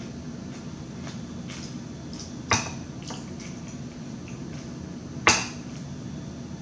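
Two sharp clicks of an eating utensil against a plate, one about two and a half seconds in and one about five seconds in, with a few fainter ticks and a steady low hum underneath.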